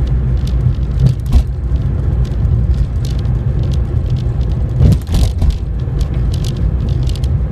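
Car driving, heard from inside the cabin: a steady low rumble of engine and road, with a few brief knocks about a second in and again about five seconds in.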